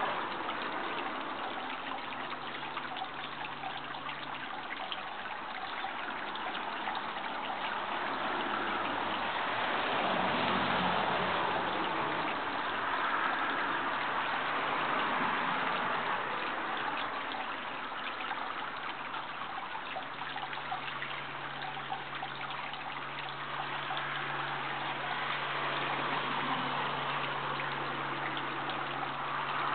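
Steady rush of running water, like a stream. A low steady hum joins underneath briefly near the start and again through the second half.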